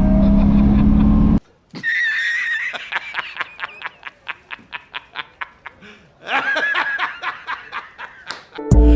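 A car engine running cuts off abruptly just over a second in. It is followed by high-pitched, squeaky snickering laughter in two bouts of rapid, repeated pulses, the first fading out, with music starting near the end.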